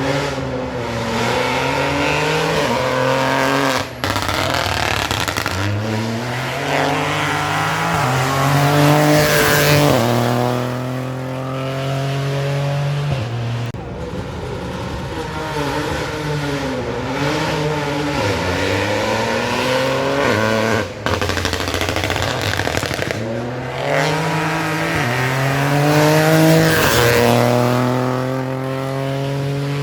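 Rally cars accelerating hard past on a special stage, the engine pitch climbing and dropping back at each upshift, several passes in a row with abrupt cuts between them.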